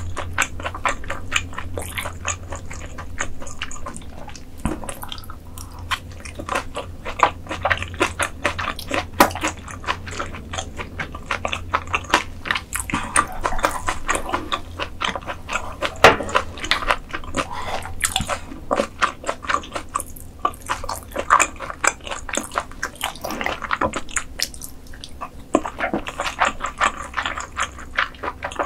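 Close-miked chewing and eating: rapid, irregular wet smacks and crunchy clicks of food being chewed, with a steady low hum underneath.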